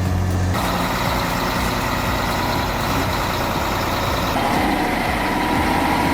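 Heavy truck engine running, with road and mechanical noise. The sound changes about half a second in and again around four seconds in, when a steadier hum comes in.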